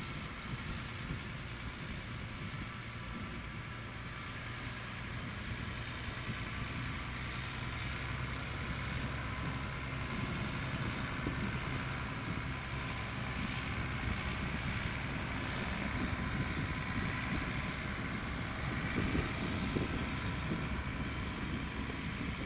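A vehicle engine running steadily with a low hum, slowly getting louder, with wind on the microphone.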